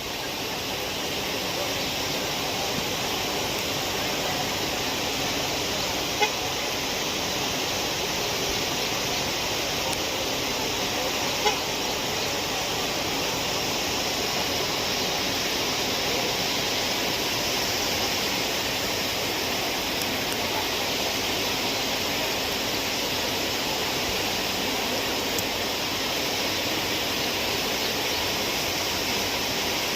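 Heavy monsoon rain pouring down, a steady even hiss, with two brief ticks.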